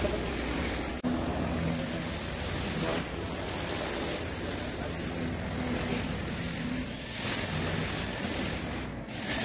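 A machine's motor running steadily with a hum under a constant hiss of noise, from hull-cleaning work on a ship in dry dock, with brief breaks about a second in and near the end.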